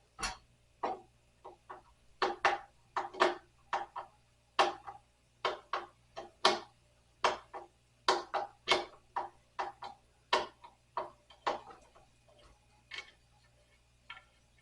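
Screws being worked out of a night stand with a screwdriver: a long run of short, irregular clicks and knocks, one or two a second.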